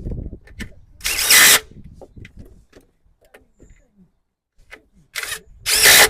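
Cordless power drill driving fasteners in three short bursts, about a second in and twice near the end, with light clicks and knocks of tool handling between.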